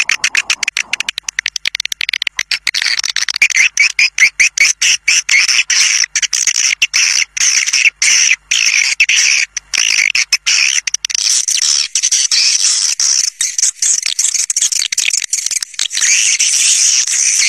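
Swiftlet lure call: dense, rapid high-pitched chirping and twittering of swiftlets, broken by many short gaps. It is a recording played to call a flock of swiftlets in.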